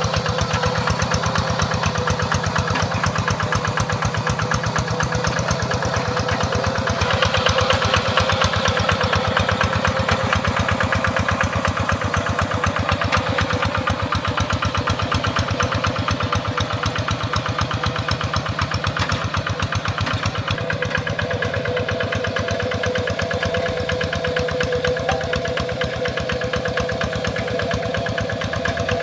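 Tractor engine running steadily with a regular firing beat, working under load. It grows louder about seven seconds in, and its tone changes about twenty seconds in.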